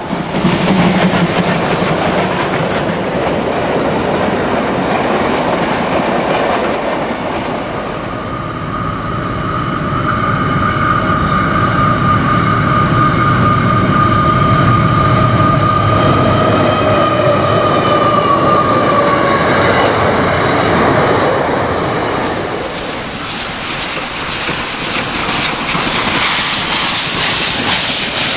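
Passing trains: first a Victorian Railways A2-class steam locomotive working a passenger train, then a long diesel-hauled freight whose wheels squeal in a long, steady high whine for about ten seconds over the rumble of wagons. Near the end, steam hisses from a steam locomotive's cylinders.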